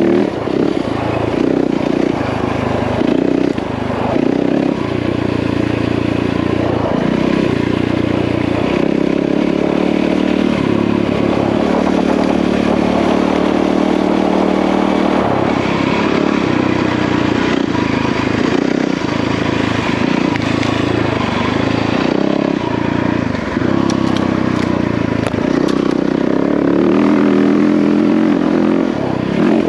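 Yamaha WR450F single-cylinder four-stroke dirt bike engine running under way, its pitch rising and falling as the throttle opens and closes and the gears change.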